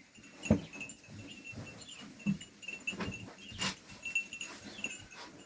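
Sheep moving about at the pen, with faint ringing of sheep bells and a few light knocks.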